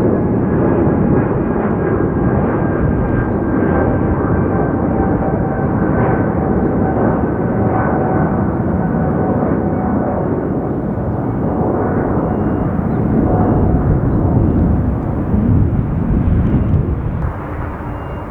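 Boeing 777 twin-engine jet airliner's turbofans running loud as the aircraft passes: a dense rumble with a thin whine that slowly falls in pitch, fading down near the end.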